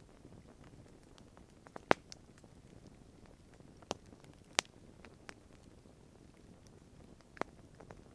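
Wood campfire burning with a low steady rustle and scattered sharp pops and crackles, the loudest about two seconds in and again at about four and a half seconds.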